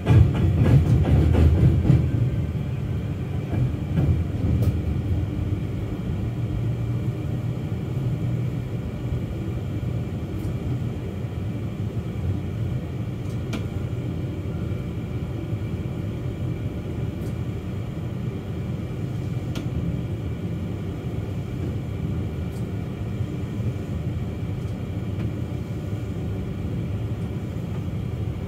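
Suburban electric train running on the rails with a steady rumble. In the first two seconds a louder rapid clatter of wheels striking rail joints as the train crosses the tram square, where the tram tracks cut across the railway.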